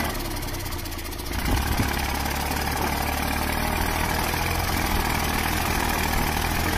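Tractor engine running steadily with a low hum. It is a little quieter for about the first second and a half, then louder and fuller.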